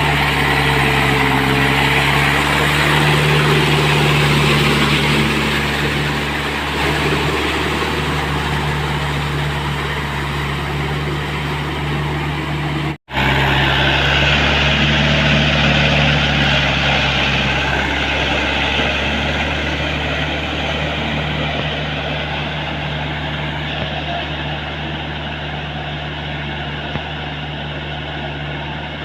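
Tractor diesel engine running steadily, swelling louder for a few seconds near the start and again just after a brief dropout about halfway.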